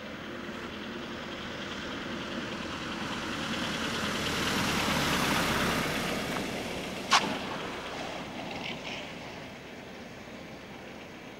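Light airplane flying past low: its engine sound swells to a peak about halfway through and then fades away. A single sharp click sounds just after the peak.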